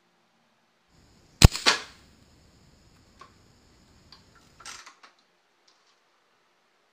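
A single shot from an RWS 54 Air King .177 spring-piston pellet rifle about a second and a half in: a sharp crack, followed a fraction of a second later by a second, weaker burst. Then a few light clicks and a short clatter of the rifle being handled.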